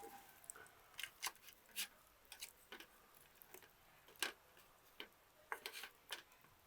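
Wood fire crackling in a fire pit: sharp, irregular pops and snaps, about a dozen, over a quiet background.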